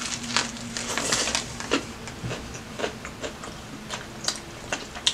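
Close-miked eating of a steak and cheese sub: a bite into the bread, then chewing with irregular soft crunches and wet mouth clicks.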